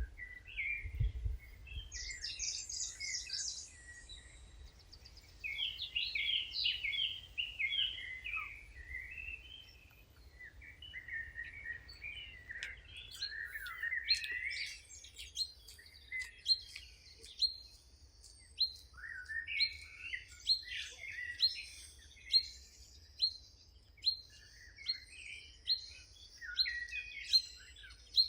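Several songbirds singing and chirping together, with warbling phrases and trills. From about halfway on, one bird repeats a short, sharp note roughly once a second.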